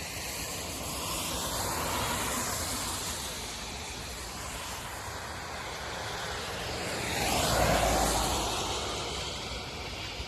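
Steady rushing noise of storm wind and rain, swelling louder about seven to eight seconds in.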